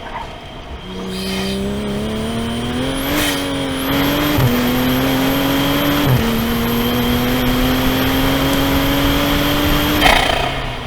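Car engine pulling hard under acceleration, climbing in pitch, with two quick upshifts about four and six seconds in, then holding steady before lifting off near the end. A faint high whine rides above the engine.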